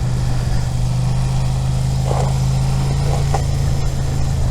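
Suzuki SV650's V-twin engine running at steady low revs in second gear, holding one unchanging note while the motorcycle leans through a slow corner.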